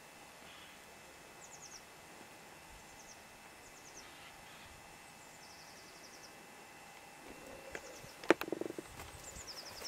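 Small songbird calling: short quick runs of high, thin, down-slurred notes, repeated every second or two over a quiet rural background. About eight seconds in, a sharp knock, followed by a couple of seconds of shuffling.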